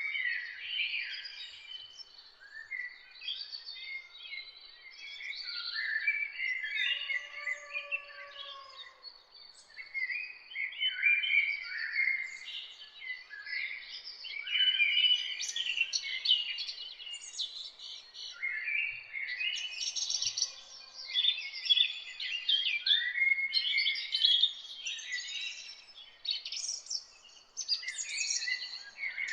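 Songbirds singing and chirping in quick, overlapping phrases with only brief gaps, over a faint steady background hiss. A lower, softer drawn-out call comes about seven seconds in.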